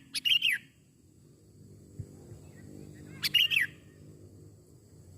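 Sooty-headed bulbul (kutilang) calling: two short, bright phrases of quick falling notes, one at the start and another about three seconds in, over a faint low hum.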